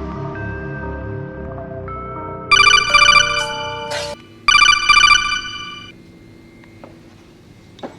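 An electronic telephone ringtone rings twice, two warbling rings about a second and a half each, over the tail of the background music. The music cuts off at about four seconds.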